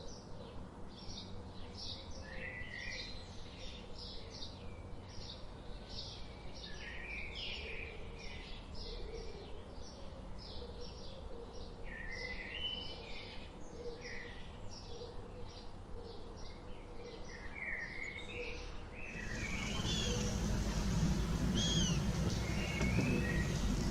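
Small birds chirping, a dense run of quick repeated chirps and short trills. About 19 s in, the sound cuts to a louder recording with a low rumbling noise underneath and different, sweeping bird calls.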